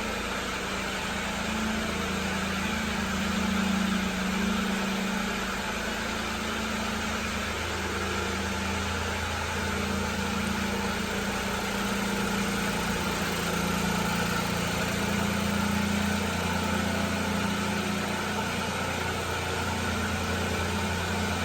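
1999 Daihatsu Hijet kei truck's 660 cc three-cylinder engine idling steadily.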